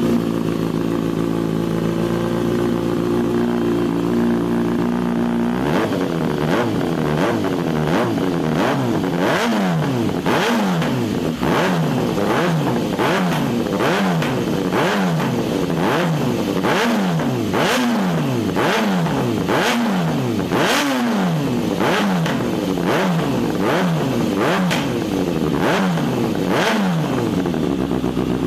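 Kawasaki ZX-6R inline-four running through a stainless slip-on exhaust with an Excalibur GP CNC tip: it idles steadily, then from about six seconds in the throttle is blipped again and again, about once a second, each rev falling quickly back toward idle.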